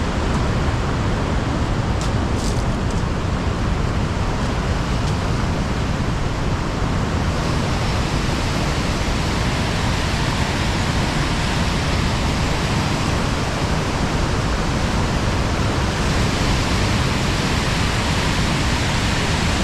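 High Force waterfall on the River Tees, a steady heavy rush of falling water with no break or change.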